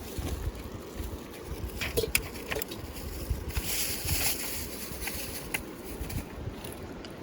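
Steady rushing of a river flowing, with wind buffeting the microphone in low rumbles and a few sharp clicks about two seconds in and again near five and a half seconds.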